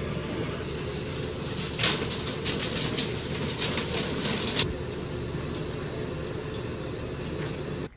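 Steady rush of running water. About two seconds in, a louder spattering starts and lasts about three seconds before it settles back.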